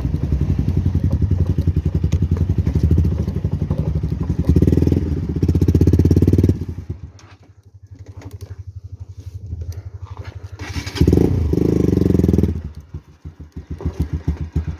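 Motorcycle engine running, loud with the throttle open for the first six seconds or so, dropping back to a low putter, then opened up again briefly around eleven to twelve seconds in.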